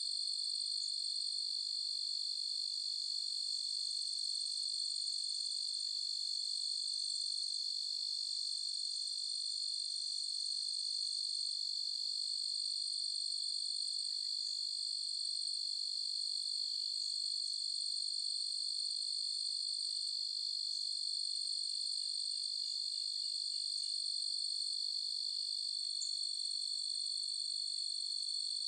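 Crickets trilling in a steady chorus that blends into one continuous high-pitched tone. A few faint short calls sound over it, including a brief rapid pulsing a little past the middle.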